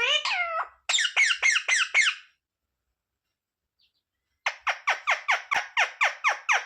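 Pet parrot calling: a few gliding calls and a quick run of short falling notes, then after a pause of about two seconds a long even series of short, sharp calls, about five a second.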